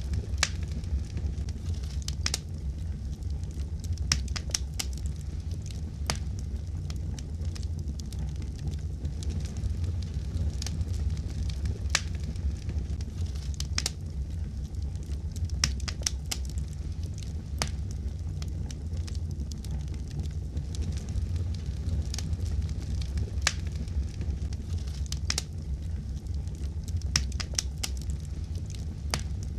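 Wood fire burning, with a steady low rumble and sharp crackles and pops scattered irregularly, a few each second.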